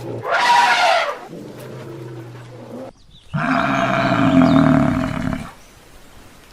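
Animal calls: a short loud call in the first second, then a longer call of about two seconds in the middle.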